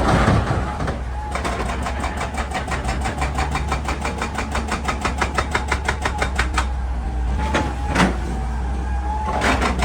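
Hydraulic rock breaker on a Hitachi EX200 excavator hammering rock in a fast, even rhythm of about eight blows a second for several seconds, then a few single blows near the end. Underneath, the excavator's diesel engine runs with a steady low drone.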